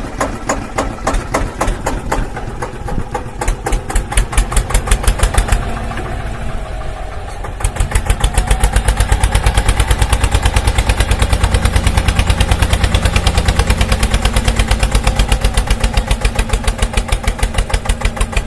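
A vehicle engine running with a steady rhythmic chug of several beats a second. About seven seconds in it switches to a louder, more even chugging.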